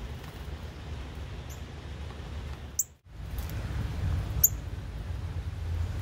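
A bird giving a few short, high-pitched chips, the loudest two midway and about four and a half seconds in, over a steady low rumble.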